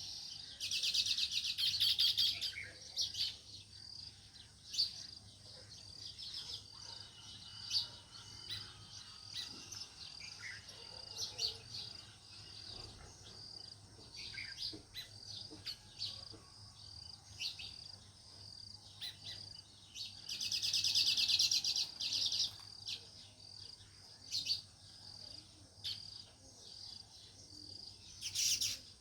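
House sparrows chirping: a steady run of short, high repeated chirps, broken twice by louder bursts of fast, dense chattering, about a second in and again about two-thirds of the way through.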